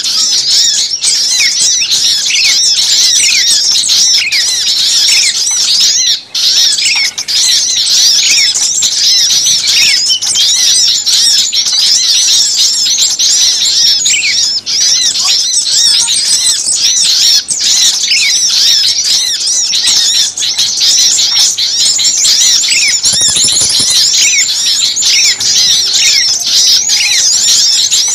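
A noisy chorus of many small songbirds calling at once: a continuous, loud chatter of high chirps, with repeated short falling notes lower down. It is a bird-lure recording of agitated small-bird calls, played to draw small birds in.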